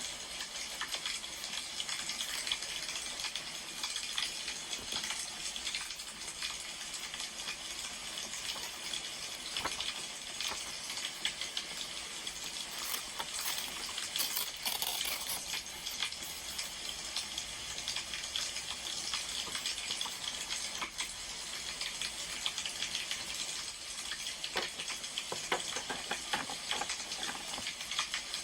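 Wood fire crackling: a steady hiss with frequent small snapping pops, a little busier around the middle and near the end.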